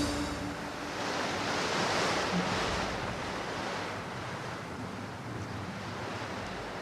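Wind rustling past outdoors as a steady hiss, swelling about two seconds in and then easing off, with the last note of the music dying away at the very start.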